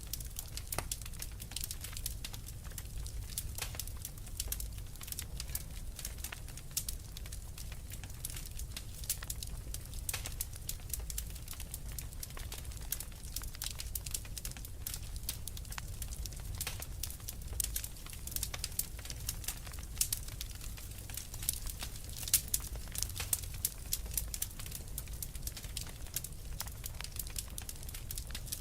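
Wood fire in a fireplace crackling, with frequent sharp pops and snaps over a low steady rumble of the flames.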